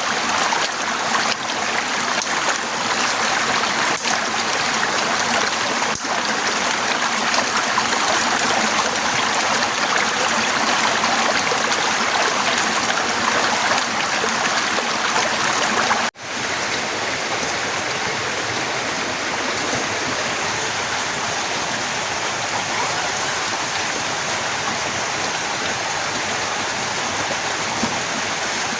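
Heavy rain pouring down in a steady, loud hiss, with a few faint drips knocking in the first seconds. About sixteen seconds in the sound cuts out for an instant, then the downpour goes on a little quieter.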